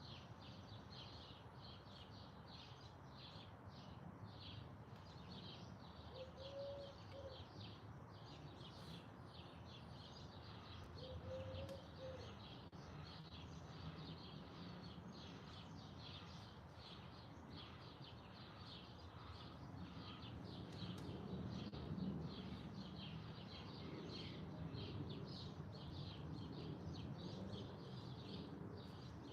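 Many small birds chirping over and over in a dense, continuous chorus of short high notes, over a steady low background rumble. Two short low notes stand out once about six seconds in and again about eleven seconds in.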